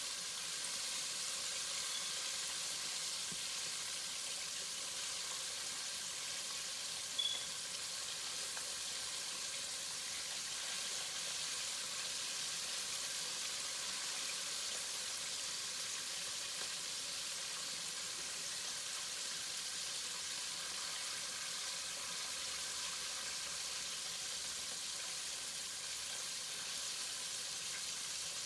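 Chicken wings frying: a steady sizzle, with one sharp pop about seven seconds in.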